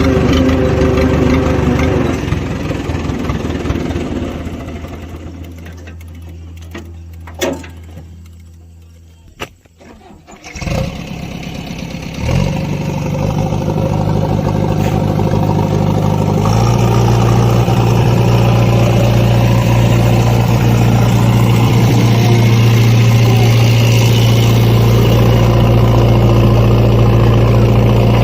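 Diesel engine running, then fading down to a quiet spell with a couple of clicks. It starts up again about twelve seconds in and settles to a louder, steady higher-speed run from about seventeen seconds.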